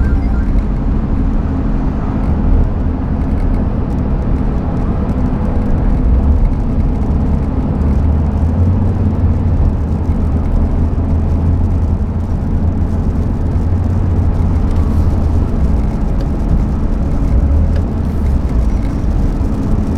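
Steady engine and road noise of a motor vehicle driving, a continuous low rumble without passing swells.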